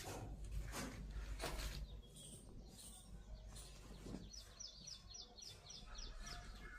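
A bird calling a quick run of about eight short, high, downward-slurred chirps in the second half, over a low steady hum. A few soft knocks come earlier, in the first two seconds and again about four seconds in.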